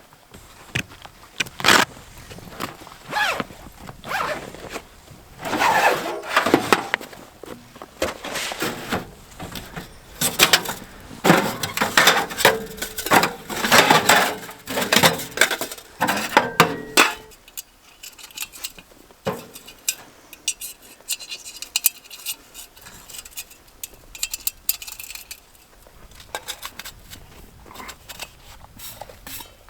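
Handling noises: irregular scraping, rustling and clinking of camping gear, dense for about the first two thirds, then thinning to scattered quieter clicks and knocks.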